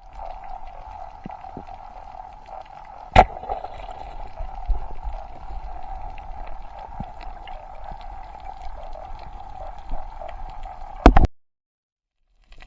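Steady gurgling water sound, with a sharp click about three seconds in and another near the end.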